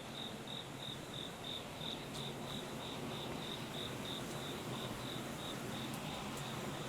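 A cricket chirping in an even rhythm, about three chirps a second, growing fainter in the second half, over a steady low hum.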